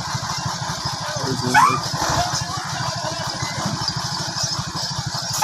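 Heavy truck's diesel engine running low and steady, its firing pulses heard as an even rumble. A short high-pitched cry rises and falls about a second and a half in.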